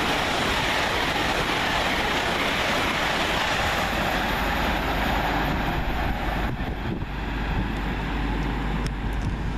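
A train running through the station: a steady rush of wheel and air noise that changes abruptly about six and a half seconds in.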